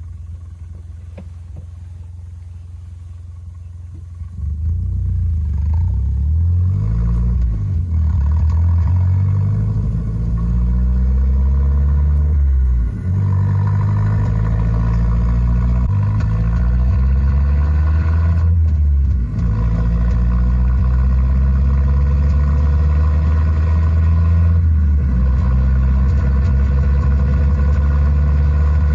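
Mazda Demio (DJ) engine and exhaust sound heard inside the cabin, played through the car's speakers by a homemade sound-racer device. It starts as a low rumble and gets much louder about four seconds in. The note then climbs in pitch and drops back repeatedly as the car accelerates and shifts.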